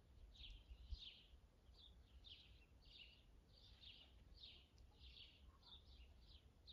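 Faint chirping of small birds, a steady run of short high chirps about two or three a second, over a low rumble.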